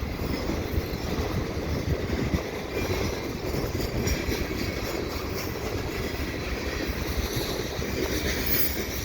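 Freight cars of a passing freight train rolling by, a steady rumble and clatter of steel wheels on the rails.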